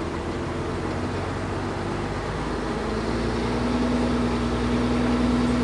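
Sawmill machinery running with a steady mechanical hum. About three seconds in, a new steady tone joins it and the sound grows a little louder, as if the machine takes on more load or speed.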